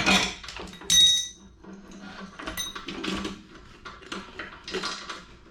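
Metal tools and small bike parts clinking and rattling as a brake assembly is worked on by hand. About a second in, one sharp metallic clink rings out briefly, followed by quieter scattered knocks and scrapes.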